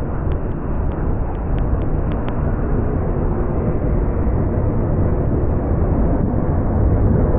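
Freight train cars rolling past close by, with a steady low rumble of steel wheels on rail. Light clicking from the wheels is heard in the first couple of seconds.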